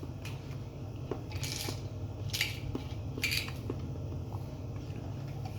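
Eating at a table: a few light clicks of cutlery on a plate, and three short hissy noises about a second apart, over a steady low hum.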